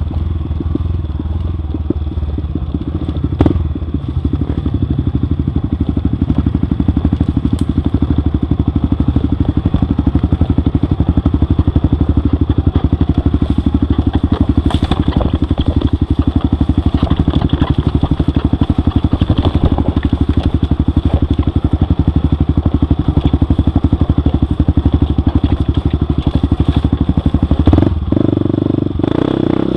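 Off-road motorcycle engine running steadily while riding a trail, with a knock about three and a half seconds in and a change in the engine note near the end.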